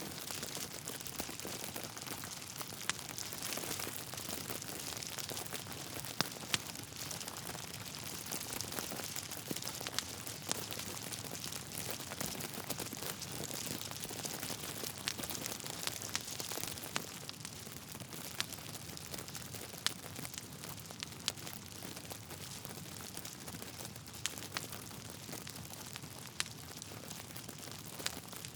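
Wood fire burning in a fireplace: a steady hiss with frequent irregular crackles and sharp pops from the burning logs.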